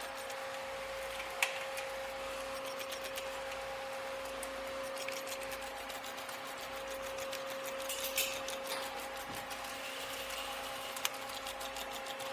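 Steady mechanical hum with fast, fine clicking over it and a few sharper knocks, about a second and a half in, about eight seconds in and near the end.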